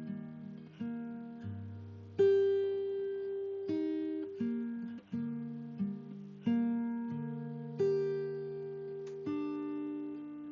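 Background music: a slowly plucked acoustic guitar, single notes and chords struck about once a second and left to ring and fade.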